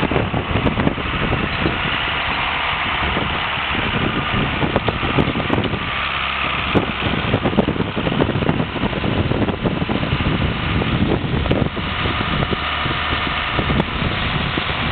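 John Deere 4450 tractor's six-cylinder turbo diesel engine running steadily.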